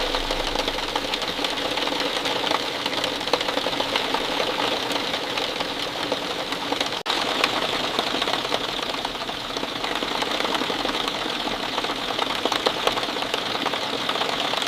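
Steady rain falling, a dense patter of individual drops over an even hiss, cutting out for an instant about seven seconds in.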